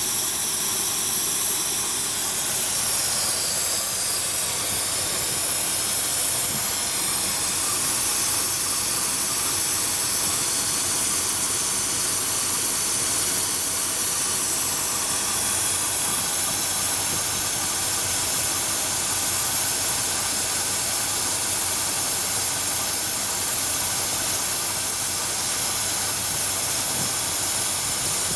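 Engine fitted with a GEET fuel processor idling steadily, under a strong, even hiss that is the loudest part of the sound.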